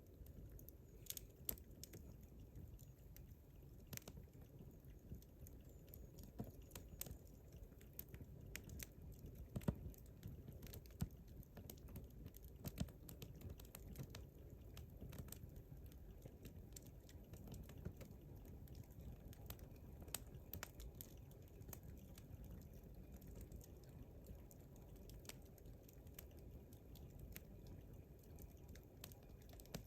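Wood campfire crackling: irregular small pops and snaps over a faint low rumble of the burning fire, with a sharper pop about ten seconds in.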